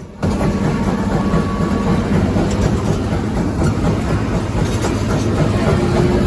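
Heavy diesel crawler dozers running hard under load, pulling against each other in a tug-of-war: a dense, steady rumble with clatter.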